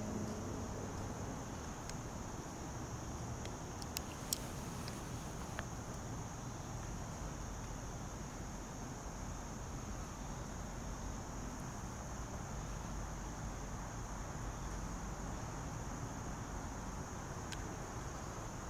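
Steady insect chorus, one unbroken high-pitched drone, over a faint low background rumble. Two sharp clicks about four seconds in and another faint one near the end.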